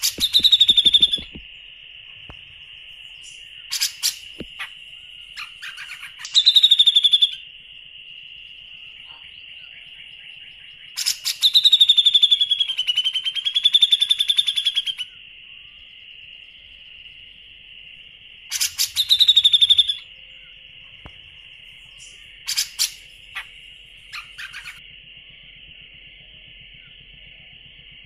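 Bird song in loud, buzzy, rapidly pulsed phrases about a second long, repeated every few seconds, with one longer phrase of about four seconds near the middle. A steady high drone runs underneath.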